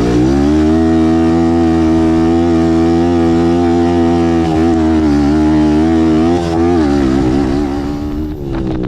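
Racing ATV engine held at steady revs, pitch rising at first, then wavering and dropping off near the end.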